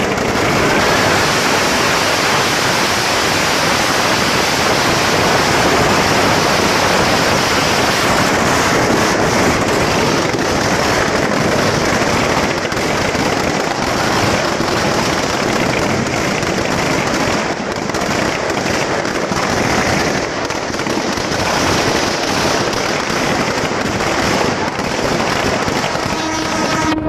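Firecrackers going off in a dense, continuous crackle of countless rapid bangs, loud and unbroken throughout.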